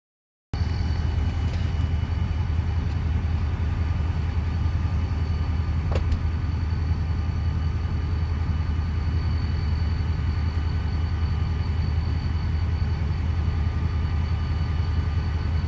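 A train rolling by with a steady low rumble and faint steady high tones, and one sharp click about six seconds in.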